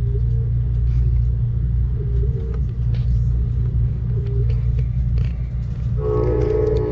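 Amtrak Cascades passenger train running along the track: a steady low rumble with scattered light clicks from the wheels and rails. About six seconds in, the train's horn starts sounding, a held chord of several tones.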